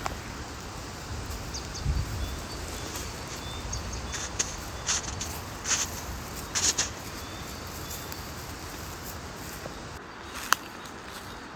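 Forest ambience with faint, short bird chirps. Several brief rustles come a few seconds in, and a single sharp click comes near the end.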